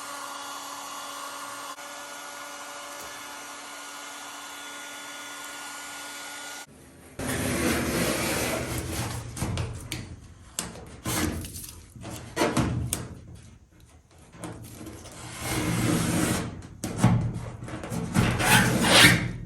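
A heat gun blowing steadily, then a razor blade scraping vinyl decals off an aluminum boat hull in repeated, irregular rough strokes.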